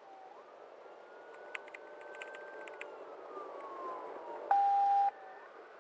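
Police car siren in a slow wail, rising and falling in pitch, heard from inside the patrol car. Near the end comes a loud, steady beep lasting about half a second.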